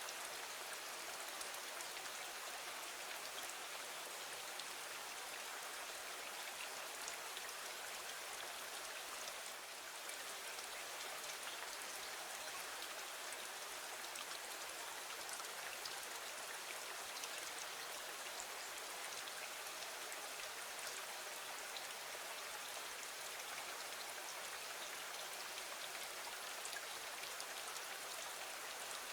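Steady rain falling against a window, an even hiss with faint scattered ticks of drops.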